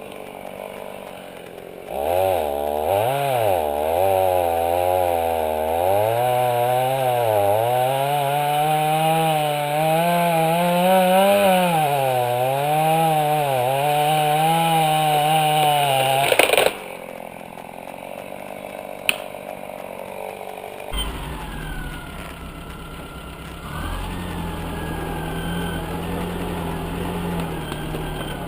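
A small engine revving hard, its pitch rising and falling every second or two, then cutting off suddenly; a lower, steadier engine sound runs after it.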